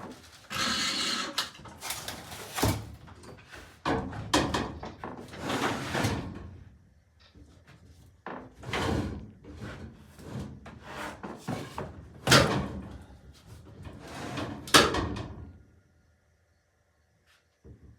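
Hoisting a heavy MDF slab on a rope: irregular creaking, scraping and knocking, with sharp knocks about halfway through and again near the end, stopping a couple of seconds before the end. The rope is close to breaking.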